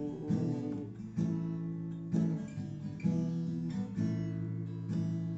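Acoustic guitar strumming basic chords, a fresh strum about once a second with the chord ringing between strums.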